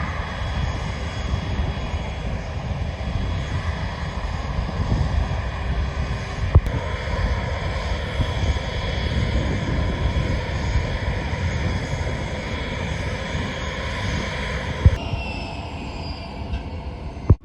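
Jet engines of a large Indian Air Force military transport plane running: a steady rumble with a high whine over it. The sound changes abruptly twice, about six and a half and fifteen seconds in.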